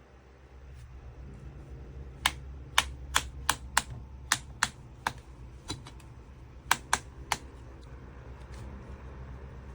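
A run of about a dozen sharp clicks, irregularly spaced over some five seconds, over a steady low hum.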